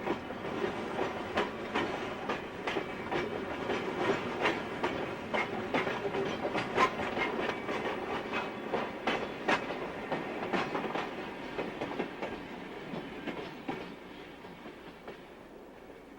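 Freight cars rolling past, their wheels clicking sharply and irregularly over the track. The sound fades away over the last few seconds.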